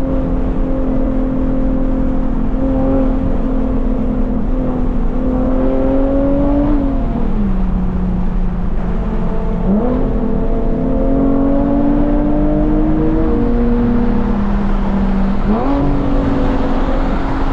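Infiniti G37 coupe's 3.7-litre V6 through a full titanium Tomei exhaust, running under light throttle with a steady, loud drone. The pitch climbs slowly, falls away as the throttle eases about seven and fourteen seconds in, and comes back up quickly a couple of seconds after each.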